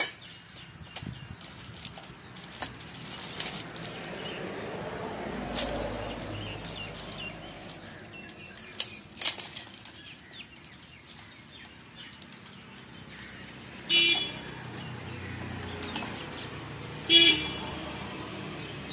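Scattered clicks, knocks and handling of metal engine parts as a two-stroke piston is fitted onto the engine. Twice, near the end, a short loud high-pitched call cuts in over the work.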